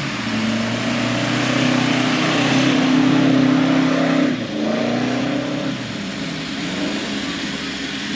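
Off-road 4x4's engine revving hard under load, holding high revs, dropping sharply about four and a half seconds in, climbing again, then easing to a lower, steady run.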